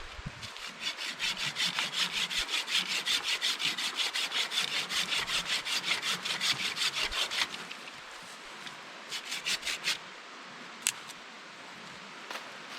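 Hand saw cutting through firewood in quick, even back-and-forth strokes. The strokes stop about seven and a half seconds in, and a short burst of about five more follows a couple of seconds later.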